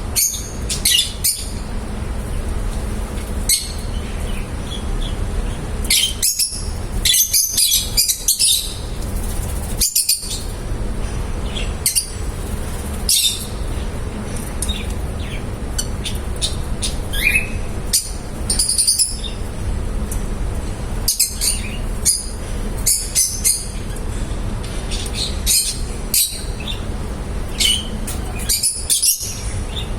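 Lovebirds chirping: many short, high chirps coming in scattered clusters, over a steady low hum.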